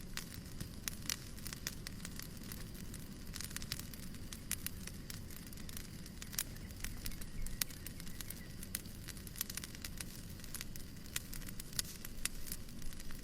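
Wood fire crackling, with sharp irregular snaps and pops over a steady low rumbling noise.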